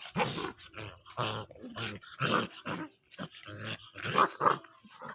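A puppy growling and barking in a rapid string of short bursts, about two or three a second.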